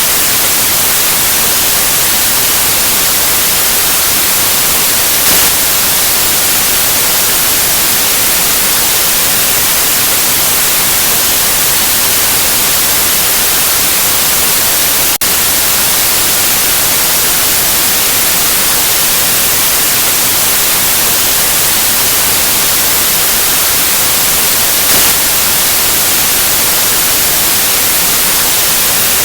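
Steady white noise, an even hiss strongest in the treble, with a split-second dip about halfway through.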